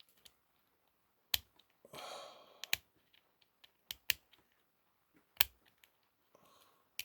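Small metal hand tools snapping and clicking against a die-cast toy truck, about six sharp irregular clicks with a short scraping rasp about two seconds in, as a glued-in axle is worked free.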